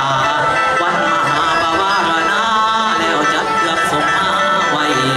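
Isan folk music from a pong lang ensemble accompanying a khaen dance: a busy melody over steady held tones, playing continuously.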